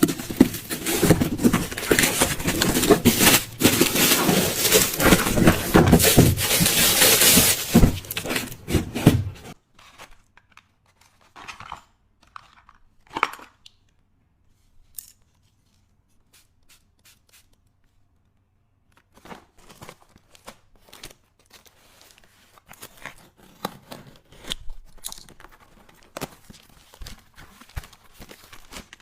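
Packaging being torn and crumpled by hand for about the first nine seconds. After that, quieter scattered clicks and light rustling of items being handled.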